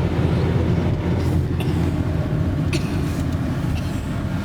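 Steady low rumble of a car on the move, engine and road noise heard from inside the cabin, with a few faint clicks.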